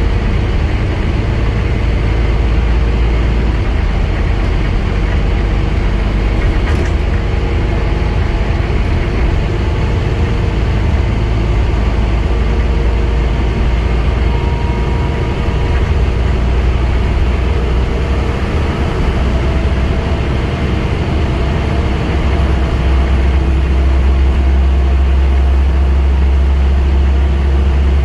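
Scania N230UD Enviro 400 double-decker bus under way, its diesel engine running with road and tyre noise. The low engine note shifts in pitch and grows stronger about two-thirds of the way through.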